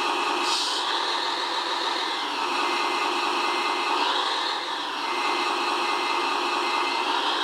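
Small electric motors of radio-controlled model construction machines whining steadily, their pitch rising and falling as they speed up and slow down.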